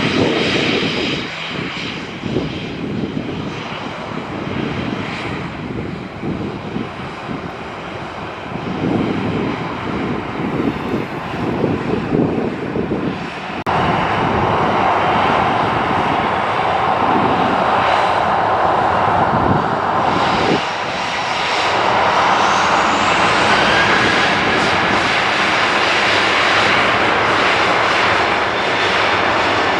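Airliner engines running loud and close: a heavy rushing noise that jumps suddenly louder about halfway through, with a thin whine rising in pitch a few seconds later.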